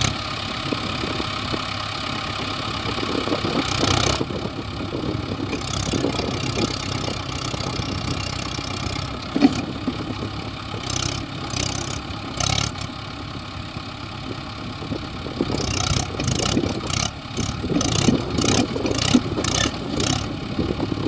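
Heavy diesel engine running steadily, revving at times, with a number of brief sharp noises over it, thickest near the end.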